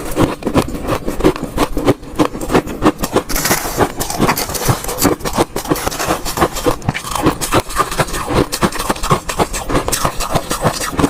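Ice cubes being chewed close to the microphone: a continuous run of loud, sharp crunches, several a second.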